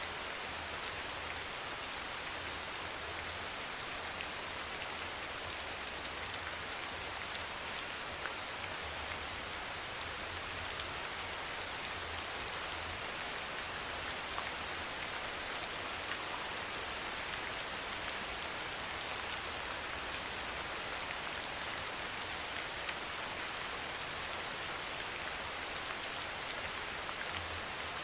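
Steady soft rain: an even hiss of rainfall with faint individual drops ticking through it.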